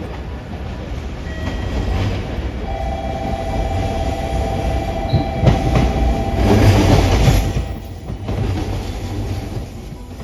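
A train running past with a steady low rumble; a thin steady whine sounds from about three seconds in to about six, and the noise swells loudest around seven seconds before easing off.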